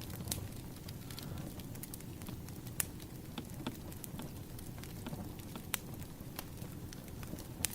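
Wood fire crackling: irregular sharp snaps and pops over a low steady rumble of burning logs, a few pops standing out louder.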